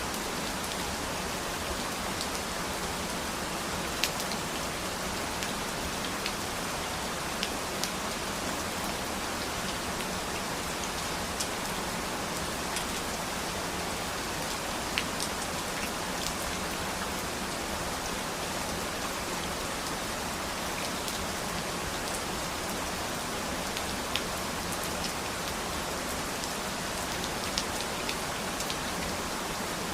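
Steady rain falling on a surface: an even hiss, with single drops ticking sharply here and there.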